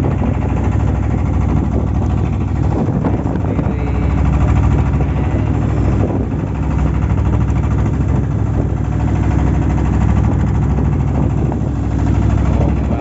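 A fishing boat's engine running steadily under way: a loud, even, low drone.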